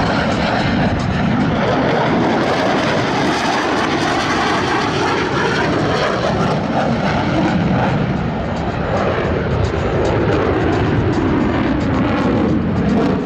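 Jet engines of Blue Angels F/A-18 Super Hornets, loud and continuous as the jets pass low during the opposing horizontal rolls. The noise eases slightly about eight seconds in, then builds again.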